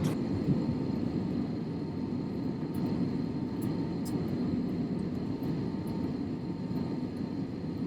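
Steady rumble of a jet airliner's cabin: engine and airflow noise heard from inside the plane, even throughout with a faint steady hum on top.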